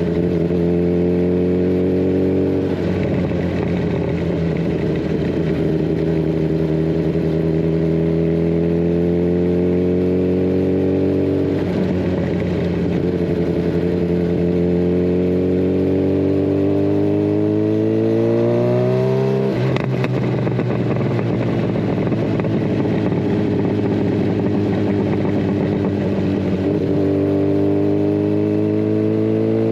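Kawasaki Ninja 1000SX inline-four motorcycle engine with a de-catted Scorpion Red Power exhaust, under way on the road. The engine note climbs in pitch through the gears, breaking at each gear change about three, twelve, nineteen and twenty-seven seconds in. The highest rev climb comes just before the change at nineteen seconds.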